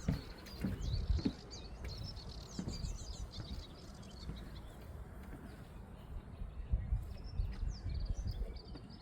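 Several small birds chirping and twittering, busiest in the first few seconds, over a low rumble with occasional thumps.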